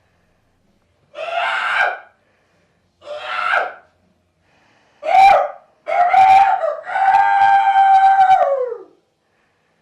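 A person's voice yelling in four short shouts, then one long held scream of about two seconds that drops in pitch as it dies away.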